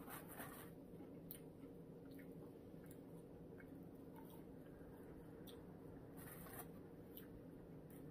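Faint chewing of a person eating fried shrimp: scattered soft crunches and mouth clicks over a steady low room hum.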